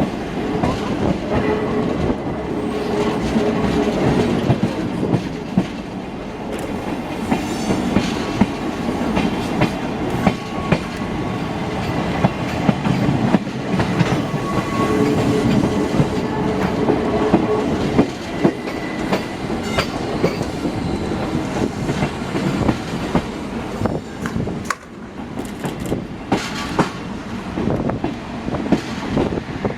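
Passenger train running along the track, heard from inside a carriage: a steady rumble with the wheels clacking over rail joints.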